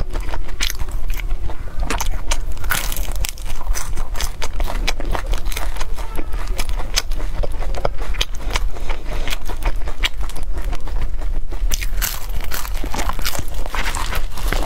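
Close-miked crunching and chewing of a crisp chocolate wafer cigar roll: a dense, continuous run of crackly bites and chews over a steady low hum.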